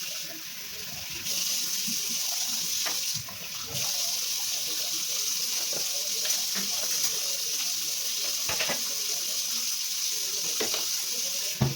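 Water from a kitchen tap running into a sink. The flow grows stronger about a second in and briefly drops around three seconds in, with a few light knocks and a sharper knock near the end.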